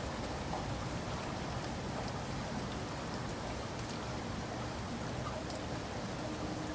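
Steady heavy rain falling on surfaces, a dense even hiss with scattered individual drop ticks.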